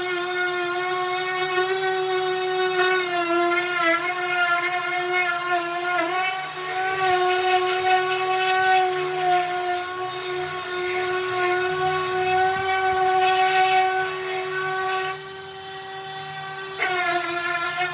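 Electric power sander running on wood with a steady motor whine, its pitch dipping briefly a few times. Near the end it goes quieter for about two seconds, then picks back up.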